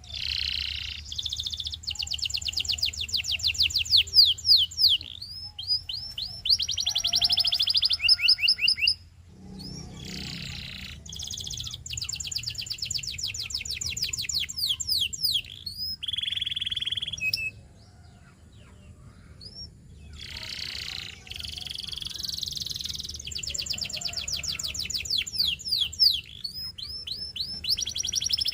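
Canary singing: long phrases of rapid trills and quickly repeated whistled notes, broken by short pauses between phrases.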